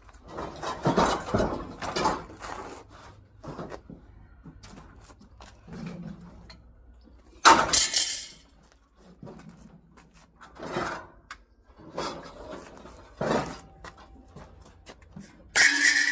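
Scrap items being handled and loaded: a series of clatters and knocks, sharpest about seven seconds in, and a loud clank near the end with a brief metallic ring.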